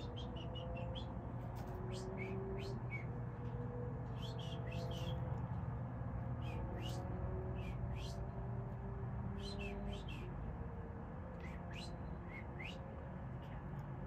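Small songbird chirping: short, high chip notes in scattered quick clusters, over a steady low rumble.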